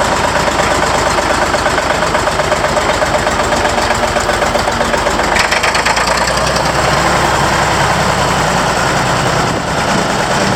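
Porsche-Diesel S309 vineyard tractor's air-cooled diesel engine running with an even, rapid pulsing beat. Its note deepens a little about halfway through and dips briefly near the end.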